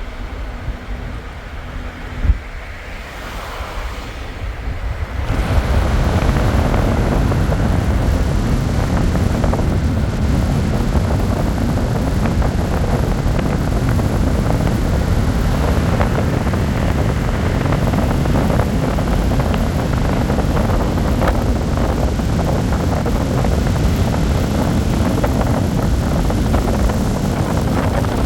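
A vehicle on the move: steady road rumble with wind noise on the microphone. It gets much louder about five seconds in.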